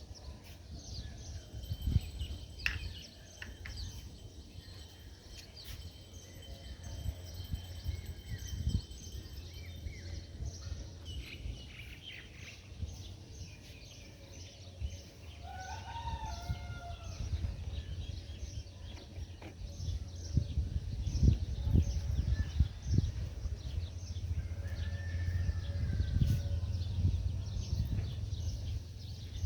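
Birds chirping, many short high chirps throughout with a few longer arched calls near the middle and again later, over a steady low rumble.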